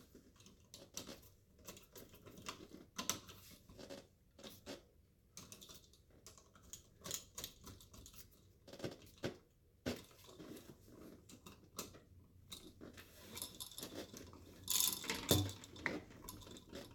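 Irregular clicks, snaps and crunches of hand work on electrical wiring: wire, tools and fittings being handled and twisted, with a louder cluster of clatter near the end.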